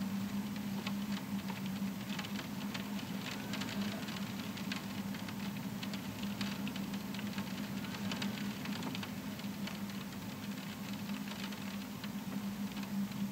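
Rain pattering on a window pane, a stream of small irregular taps over a steady low hum.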